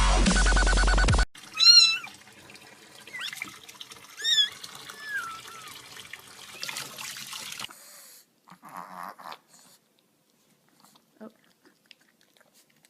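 Dubstep music cuts off about a second in, then a cat meows several times over a faint steady hiss, the loudest meows near the start and about halfway through.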